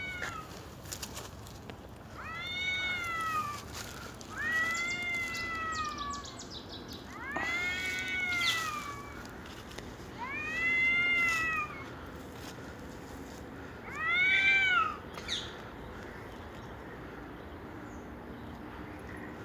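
A cat meowing about six times, each meow drawn out for about a second, rising and then falling in pitch, with short pauses between them.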